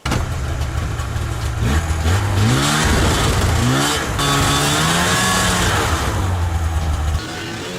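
An engine running and revving, its pitch rising and falling, then dropping abruptly to a quieter, steadier sound near the end.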